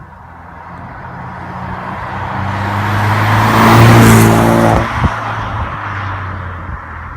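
Mk3 Ford Focus ST turbocharged four-cylinder with the exhaust resonator deleted, passing by under throttle. Its exhaust note swells to a peak about four seconds in. It cuts off sharply as the throttle closes, with a couple of sharp pops, then fades away.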